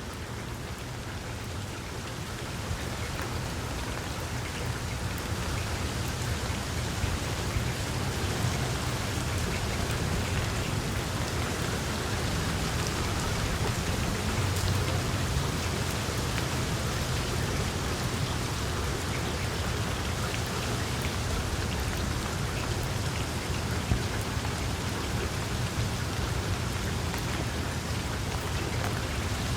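Wood fire crackling in a fireplace: a dense run of small pops and snaps over a low, steady rush of flame, with one sharper pop about 24 seconds in.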